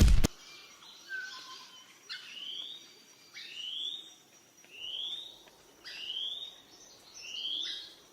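A bird calling: a short rising call repeated five times, about once every second and a quarter.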